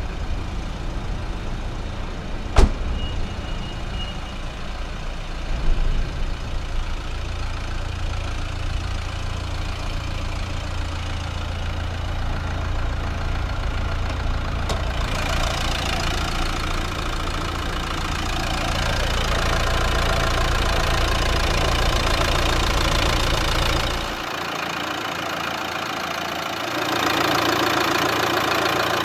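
Nissan Juke's 1.5 dCi four-cylinder turbodiesel idling with a steady diesel clatter. A single sharp click comes about two and a half seconds in. The deep rumble drops away suddenly near the end, leaving a brighter clatter.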